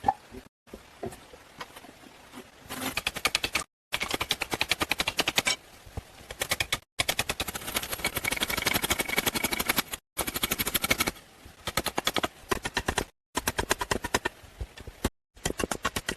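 Rapid, evenly spaced knocks, several a second, in short runs broken off by abrupt cuts.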